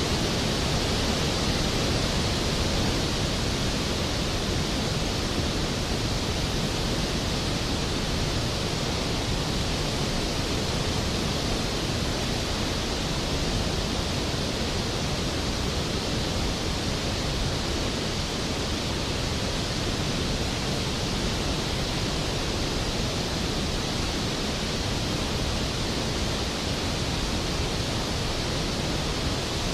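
Skógafoss waterfall: a large volume of water plunging and crashing, a steady, dense roar with no breaks.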